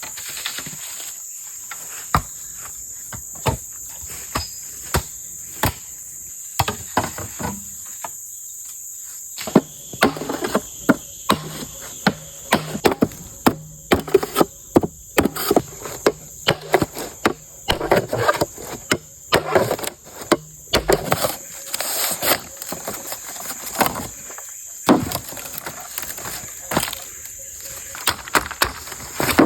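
Forest insects droning steadily at a high pitch, with irregular knocks and clatter throughout that grow busier from about ten seconds in.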